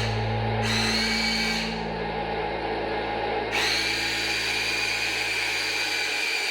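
Small electric motors and gearboxes of a remote-control toy construction vehicle whining steadily. About three and a half seconds in, the whine jumps to a higher, brighter pitch.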